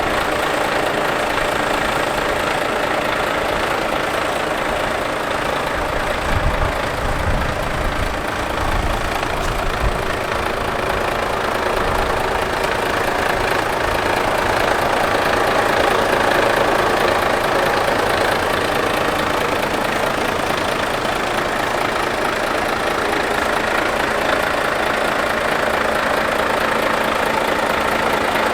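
Volvo FH540 truck's 13-litre straight-six diesel engine idling steadily.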